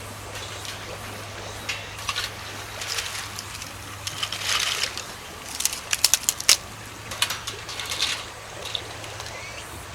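Irregular clicks, taps and short rustling bursts of things being handled, over a steady low hum.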